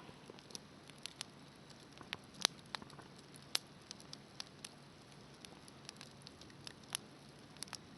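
Wood fire crackling in a fire pit: scattered, irregular sharp pops and snaps over a faint low hiss.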